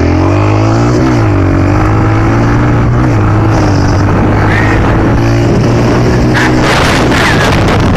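A vehicle engine running steadily, its pitch dipping and recovering in the first second or so. A loud rushing noise comes in over it for the last second and a half.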